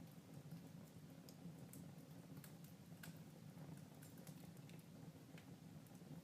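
Fireplace fire crackling faintly: scattered, irregular snaps and pops over a low steady hum.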